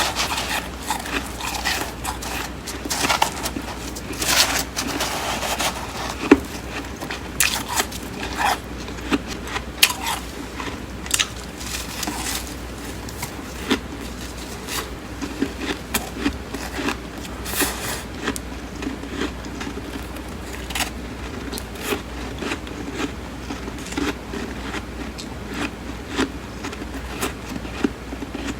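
Close-up chewing of flaky, crisp freezer frost: big bites followed by irregular sharp crunches, sometimes several a second.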